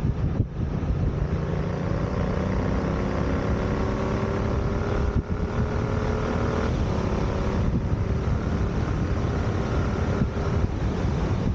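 Yamaha MT-07 (FZ-07) parallel-twin engine through an aftermarket full exhaust fitted with a dB killer insert, pulling under load while riding. Its pitch climbs steadily and drops at a few short gear changes, with wind noise underneath.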